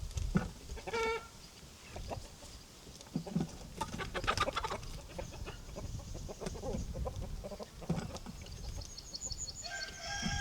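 Chickens clucking in short, scattered calls, with a longer call from a rooster beginning near the end.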